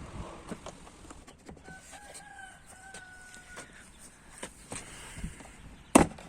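A rooster crowing in the background, one drawn-out call of about two seconds with a brief break in the middle, over scattered light clicks of handling. Near the end comes one sharp, loud knock.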